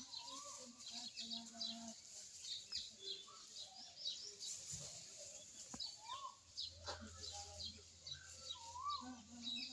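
Small birds chirping rapidly and repeatedly throughout, with a few lower, rising-and-falling calls mixed in.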